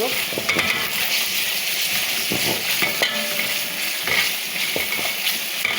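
Onions, garlic and tomato paste frying in oil in a pan, sizzling steadily, with a spoon stirring and scraping against the pan now and then.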